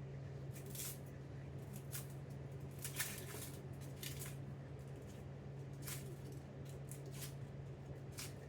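A kitchen knife slicing onion on a cutting board: short, crisp cuts at an uneven pace, a few in quick succession about three seconds in. A steady low hum runs underneath.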